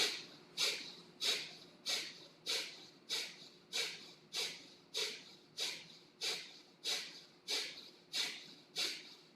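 Kapalabhati (skull shining breath) pranayama: a steady run of short, sharp forceful exhales through the nose, each with a passive inhale between, about three every two seconds, some fifteen in all.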